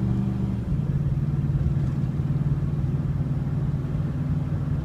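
Exhaust drone of a Ford F-150's 5.4 L V8 through a Flowmaster Super 44 muffler, heard inside the cab while the truck accelerates on the highway. The low exhaust note changes pitch under a second in, then holds steady.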